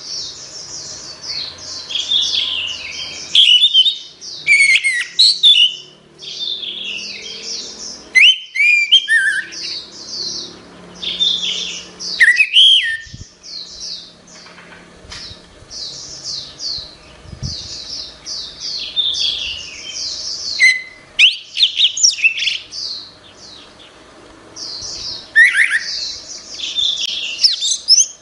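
Orange-headed thrush (anis merah) singing a fast, varied song of chirps and whistles, in phrases of a second or more broken by short pauses.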